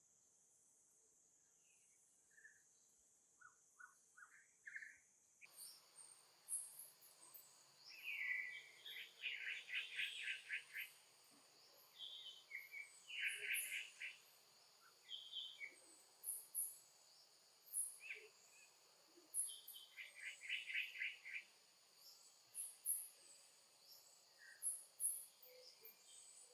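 Birds chirping and trilling in short calls, over a steady high insect buzz that cuts in about five seconds in.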